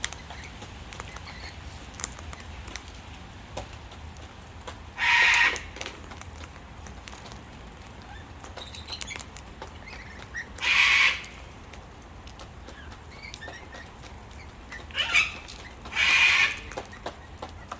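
Cockatoos giving four harsh screeches, about half a second to a second each, the last two close together. Light pattering and small clicks in between.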